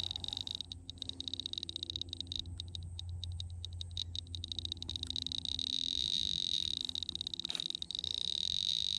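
Tri-field meter zinging: its high electronic alarm tone flutters in rapid pulses for the first few seconds, then holds steady. The meter is going off, registering a field reading.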